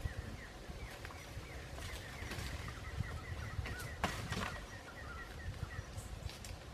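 A bird chirping over and over in short high notes, with rustling and a sharp snap about four seconds in as forest vines are pulled and handled.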